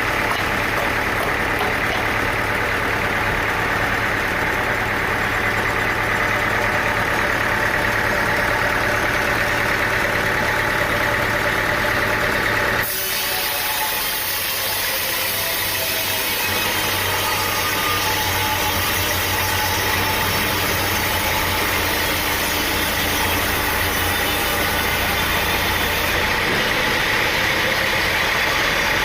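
An engine running steadily at an even speed. About halfway through, the sound changes abruptly to a different, hissier engine or machine sound, as at a cut between clips.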